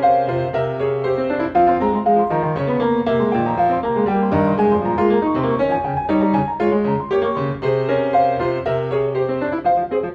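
Background piano music: a quick run of notes over a sustained low bass.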